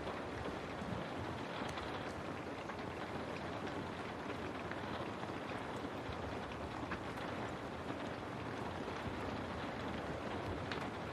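Steady rain falling on a window pane, an even hiss with scattered ticks of single drops striking.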